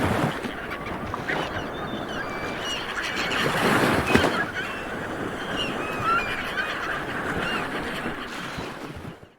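Light surf washing onto a beach, with one wave breaking louder about four seconds in, and birds calling repeatedly over it in short rising and falling cries. The sound fades out just before the end.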